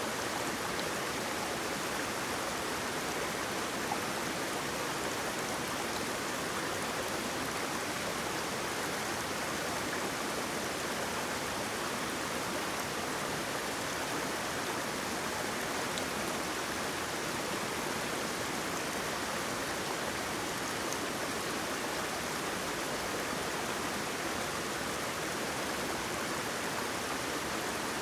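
Waterfall: falling water rushing in an even, steady hiss.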